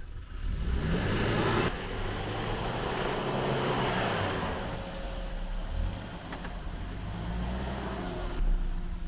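4x4 vehicle engine working over an off-road course, its revs rising and falling, with road and tyre noise and a brief bump near the end.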